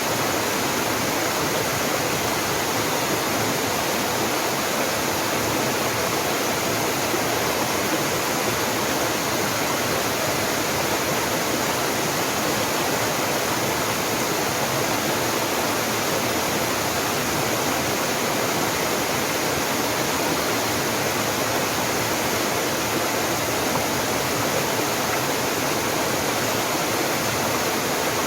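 Small mountain waterfall pouring steadily: a constant, even rush of falling water.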